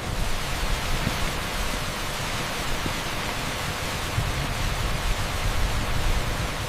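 Torrential rain on an asphalt street, making a dense, steady hiss with a low rumble underneath. It drops out for an instant at the very start.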